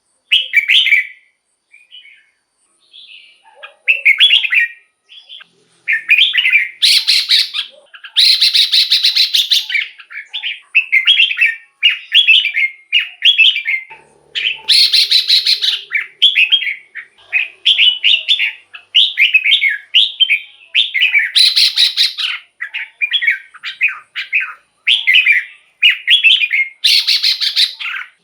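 Red-whiskered bulbul singing: short bright whistled phrases repeated one after another with brief gaps, with several louder, noisier calls among them.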